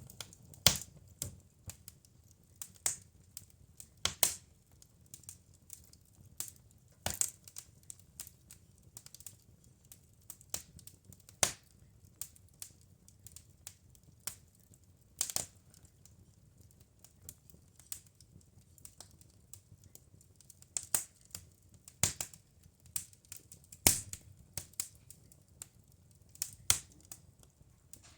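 Wood fire crackling in a fireplace: irregular sharp pops and snaps, a few much louder than the many faint ones, over a faint low hiss.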